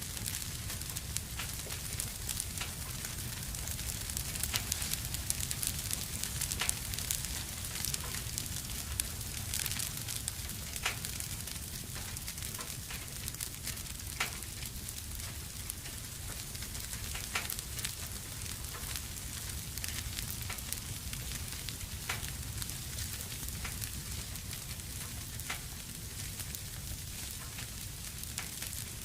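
Fire burning in a fireplace and crackling: a steady hiss and low rumble, with scattered sharp pops.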